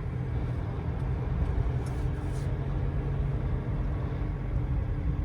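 GAZelle Next van driving slowly, its engine and road noise a steady low rumble.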